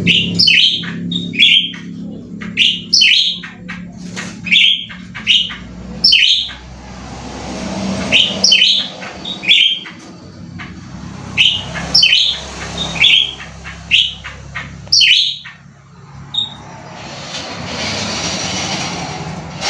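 Cucak ranting songbird calling hard: loud, sharp chirping phrases repeated in quick bursts with short pauses, over a steady low hum. A broad rushing noise swells near the end as the calling stops.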